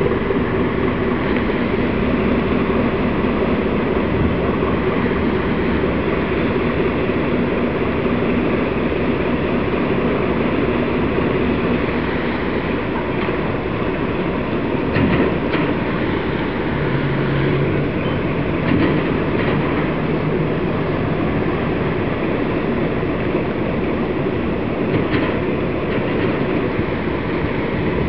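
A vehicle running steadily: a continuous mechanical rumble with a few held tones and occasional faint clicks.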